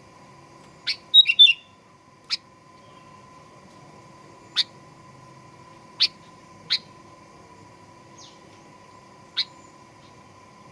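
Sooty-headed bulbul (kutilang) calling: a loud quick burst of a few notes about a second in, then single short, sharp chip notes at intervals of one to three seconds.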